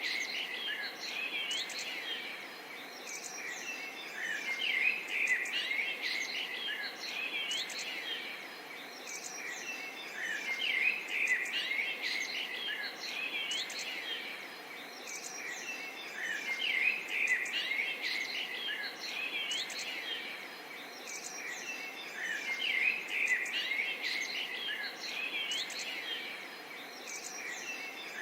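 Many small birds chirping and twittering in short, quick phrases over a steady light babble of water. The chorus swells and eases every few seconds.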